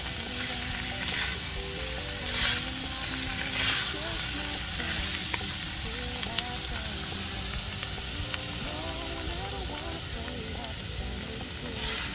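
Pork belly in curry paste sizzling in a hot wok as it is stir-fried. A wooden spatula stirs and scrapes through it, with a few louder scraping strokes in the first few seconds.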